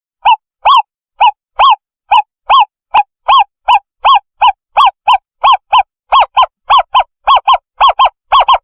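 Owl call played as a bird-hunting lure: a long series of short, clear hooting notes, each rising and then falling in pitch, about two or three a second at first and quickening to about four a second near the end.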